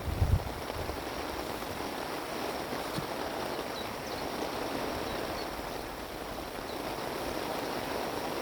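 Wind blowing steadily: an even rushing noise with no gusts hitting the microphone. A few faint high chirps come through midway.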